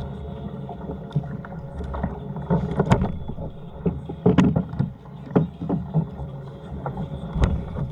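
Irregular knocks and thumps on a fishing kayak, a few sharp ones a second or so apart, over a steady low rumble of wind and water.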